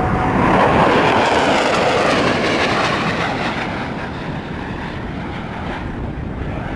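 Eurofighter Typhoon's twin EJ200 turbofan engines heard as the jet passes: a loud rushing roar, loudest about a second in, that fades over the next few seconds.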